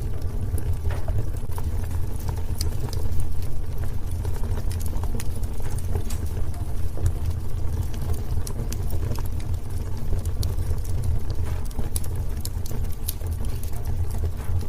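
Wood fire burning in a fireplace: a steady low rumble of the flames with many scattered sharp crackles and pops from the burning wood.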